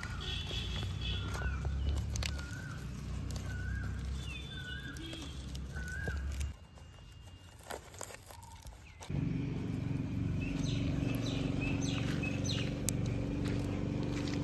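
A bird repeating a short chirping call about once a second over a low rumble. After a brief quieter gap, a steady low hum takes over with scattered clicks.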